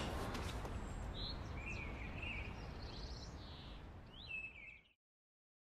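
Several short bird chirps over a low, steady outdoor rumble. The ambience fades gradually and then cuts to silence near the end.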